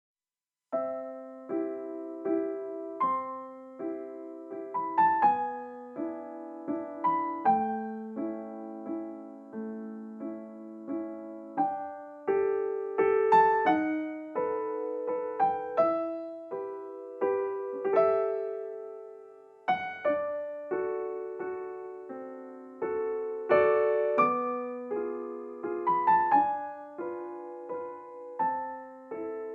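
Solo piano music: a slow melody over held chords, each note struck and left to decay.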